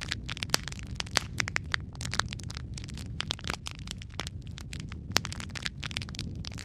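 Fire in a fireplace crackling, with many sharp, irregular pops and snaps of varying loudness over a steady low rumble.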